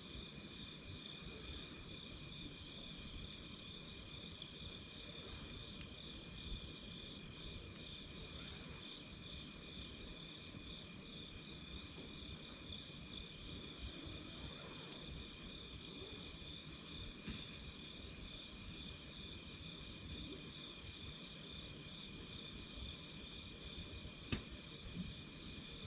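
Campfire burning with a low rumble and scattered sharp crackle pops, the loudest a little before the end, under a steady high trill of chirping insects.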